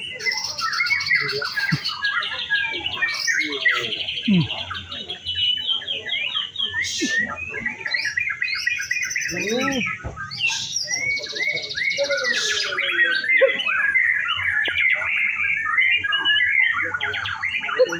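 Several white-rumped shamas (murai batu) singing at once, a dense, continuous tangle of overlapping whistled phrases, trills and chatter.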